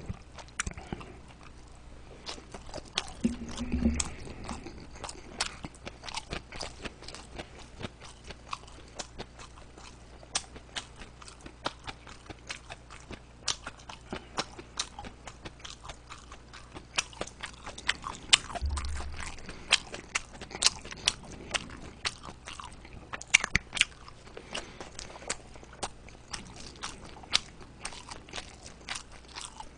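Close-miked chewing of a mouthful of large dumplings (mandu), with many small irregular wet mouth clicks. Twice there is a dull low bump, about four seconds in and again past the middle.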